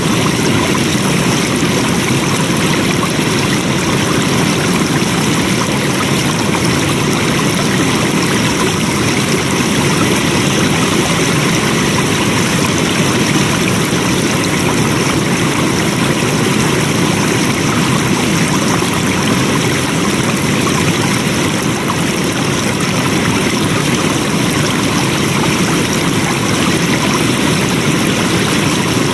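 Flowing water, a stream or small cascade running steadily with a constant rushing sound.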